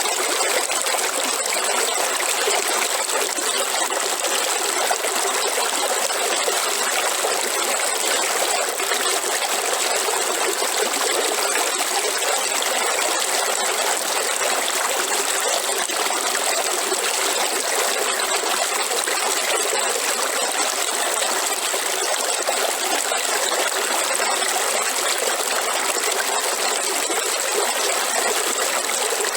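Waterfall: water rushing steadily and unbroken, a bright hiss-like rush with little low rumble.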